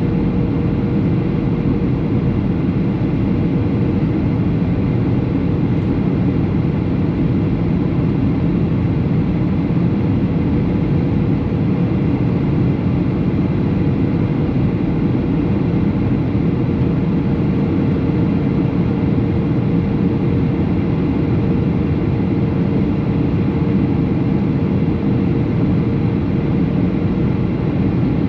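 Steady in-flight cabin noise of a Boeing 737 airliner: engine and airflow rush, heavy in the low end, with a steady hum running through it.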